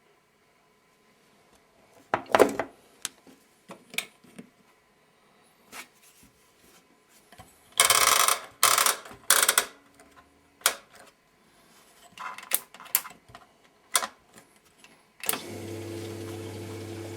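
Clicks and knocks from an Eudora Sparmeister 702 Classic washing machine as it is set and started, with a cluster of louder clattering knocks near the middle. About two seconds from the end a steady hum and rush of water begin as the machine starts filling for the pre-wash.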